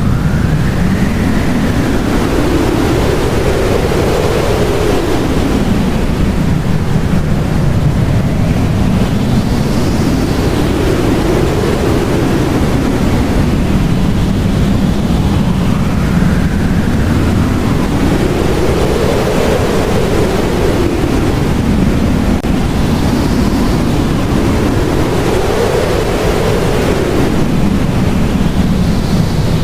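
Blizzard wind blowing steadily, its howl rising and falling in pitch in slow swells every few seconds.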